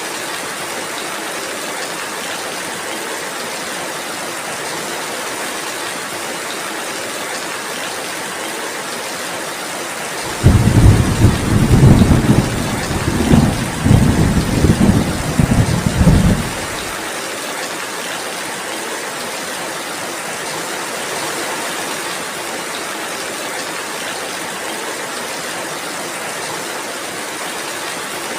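Steady rain falling, with a loud rolling rumble of thunder that starts abruptly about ten seconds in and lasts about six seconds.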